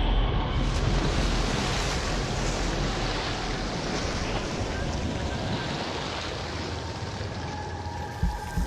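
Water churning and splashing steadily as a crocodile thrashes a wildebeest in a shallow pool, trying to drown it. The churning eases off slowly, with two low thumps near the end.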